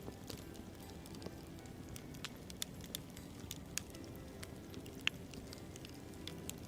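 Wood campfire crackling: irregular sharp pops and snaps over a steady low rush of burning, with the loudest pop about five seconds in.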